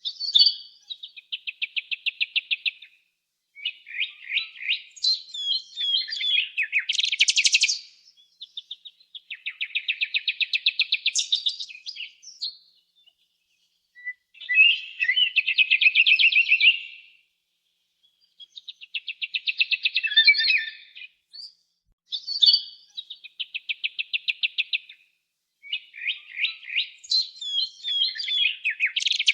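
A songbird singing in repeated phrases: a fast, even trill of high notes, then a busier, jumbled twittering run that climbs higher, with short pauses between phrases.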